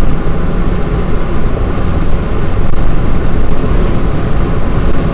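Steady road and wind noise of a car driving at highway speed, heard from inside the moving vehicle.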